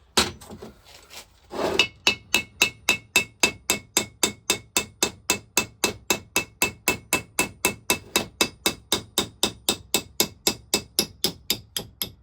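Hammer tapping on a seized vaporiser of a Lister TM stationary engine to shock its parts apart, with a slight metallic ring. Two separate knocks come first, then a long, even run of light, quick taps, about four a second, with the hammer's own weight doing the work.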